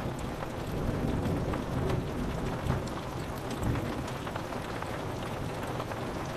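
Steady rain on a window pane, many separate drops ticking against the glass, with a low rolling rumble of distant thunder that swells in the first few seconds and then settles.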